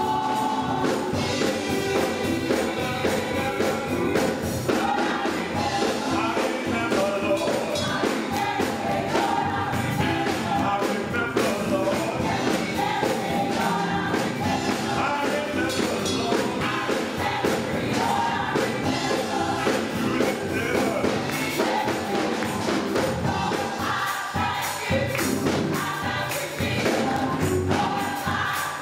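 Gospel choir singing with band accompaniment and steady rhythmic percussion, including tambourine.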